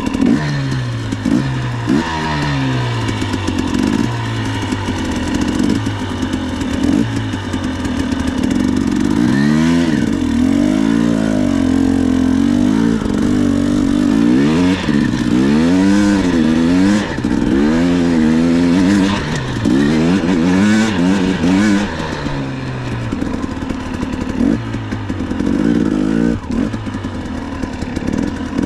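Dirt bike engine running while ridden, its revs rising and falling again and again as the throttle is opened and closed.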